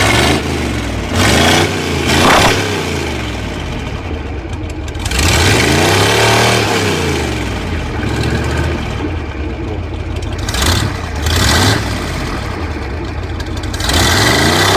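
An engine, presented as running on hydrogen, revving up and dropping back several times, with one longer, slower rev in the middle.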